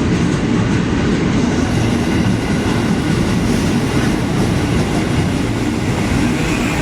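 Train running along the rails, a steady, loud rumble of wheels and cars with some clickety-clack: the special delivery train of ex-Tokyo Metro 05 series EMU cars hauled by a CC 201 diesel locomotive.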